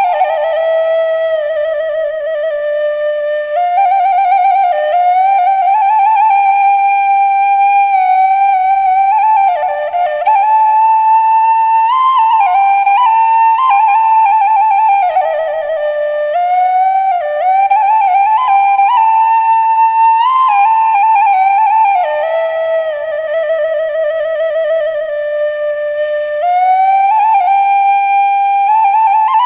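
Background music: a slow solo flute melody with vibrato, each note held a second or two, with no accompaniment.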